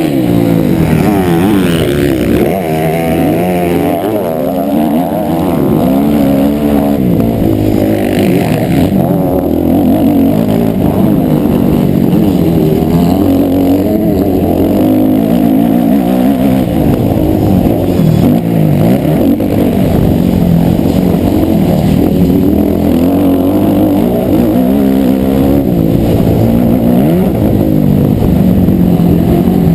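Motocross motorcycle engines revving and accelerating, their pitch rising and falling over and over, with more than one engine heard at once at different pitches.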